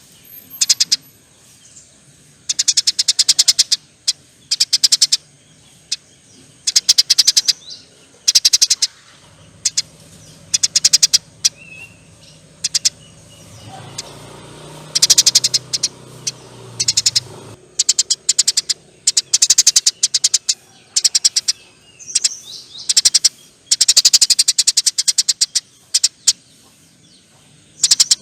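Eurasian tree sparrows chattering: bursts of very rapid, high buzzing chirps, each half a second to a second and a half long, repeated every second or two, with a faint low hum in the middle.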